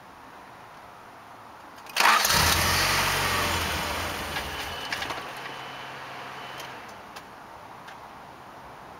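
A 1990 Honda Prelude's four-cylinder engine starts about two seconds in, loudly at first. It keeps running and settles gradually quieter over the next few seconds.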